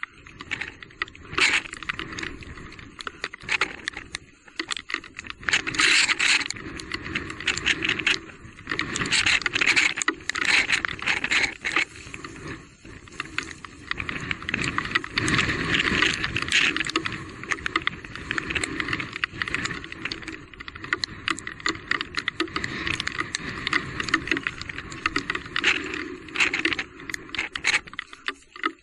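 Electric mountain bike rattling and clattering over a rough, rocky trail, with bursts of rapid knocks as it crosses rougher ground.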